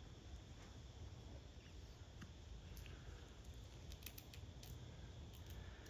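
Near silence: a low steady background rumble with scattered faint, short clicks, which come more often after about four seconds.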